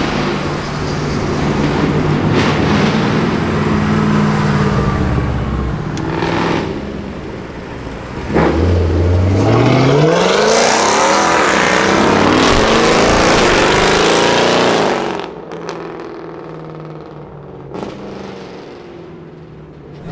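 Mercedes-AMG V8 cars driving past: a steady engine drone at first, then about eight seconds in a sudden hard acceleration from a Mercedes C63 AMG's 6.2-litre V8, its note climbing steeply and staying loud for about six seconds before dropping away, leaving quieter traffic sound.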